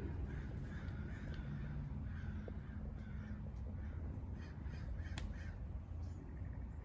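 Repeated harsh bird calls, sounding like crows cawing, over a low steady rumble, with a sharp click about five seconds in.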